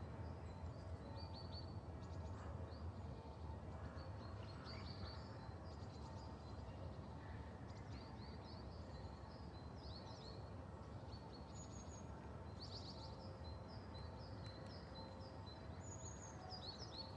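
Small songbirds chirping and twittering in short trills, scattered throughout, over a steady low background rumble.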